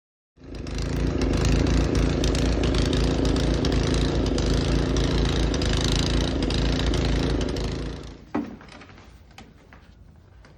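Small petrol engine running steadily at a constant speed, then stopping about eight seconds in, followed by a few faint knocks.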